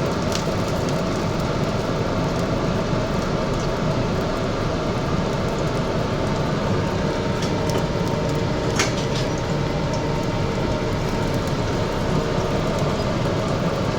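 Steady low rumbling noise, with a few light clicks and knocks, the clearest about nine seconds in.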